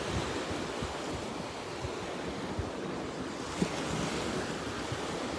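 Ocean surf washing onto the beach, with wind buffeting the microphone. A single brief knock about three and a half seconds in.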